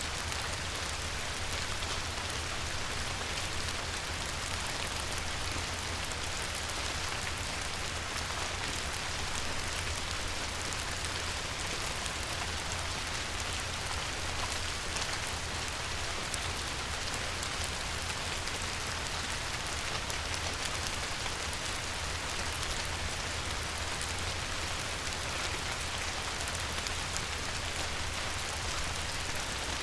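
Light rain falling steadily on a river, a dense patter of many small drops, with a steady low rumble underneath.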